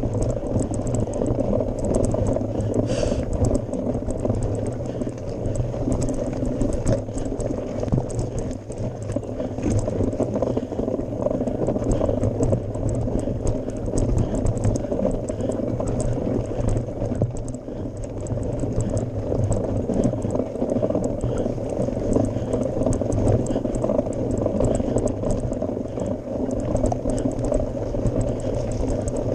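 Mountain bike riding up a gravel forest road: a steady low rumble and crunch from the tyres on the gravel, with many small clicks and rattles from the bike.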